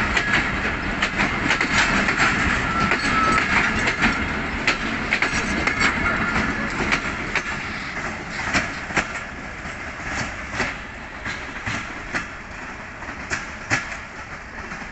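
Passenger train coaches rolling out on the rails, their wheels clicking and clacking over the rail joints. The sound fades and the clicks grow sparser as the last coach pulls away.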